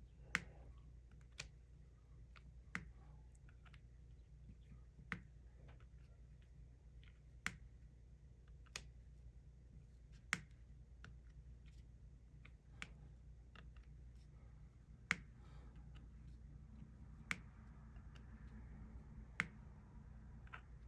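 Diamond-painting drill pen pressing resin drills onto the sticky canvas: sharp single clicks every second or two, over a low steady hum.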